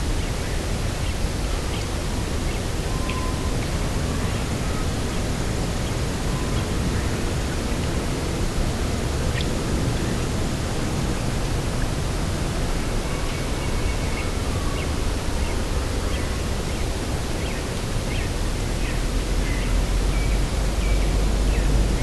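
Steady wind blowing across an open grass field, with a low rumble that grows stronger near the end, and faint scattered bird calls.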